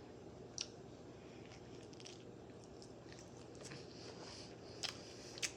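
Faint close-miked chewing and mouth sounds of someone eating a sausage-and-pepper sandwich, with a few short clicks: one about half a second in and two near the end.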